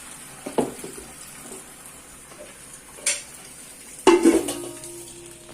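Metal cooking pots and utensils clattering: a couple of single knocks, then a loud clang about four seconds in that leaves the metal ringing for a couple of seconds.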